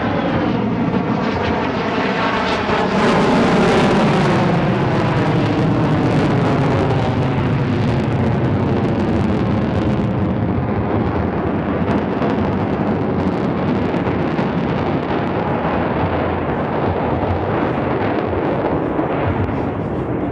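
Single-engine F-35A Lightning II fighter jet flying a display pass, its afterburning turbofan a loud, continuous jet noise with a sliding, falling pitch as it passes; loudest about three to four seconds in, then holding steady.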